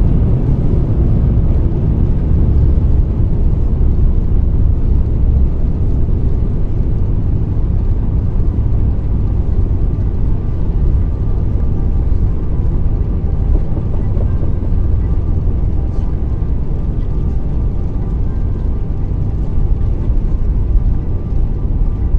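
Airbus A350-1000 airliner heard from inside the cabin: a loud, steady low rumble with airflow hiss.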